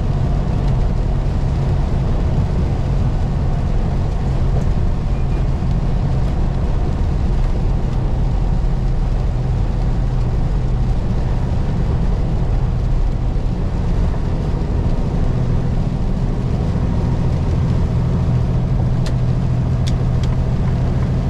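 Semi-truck's diesel engine running steadily with road noise while cruising, an even low drone that holds its pitch throughout.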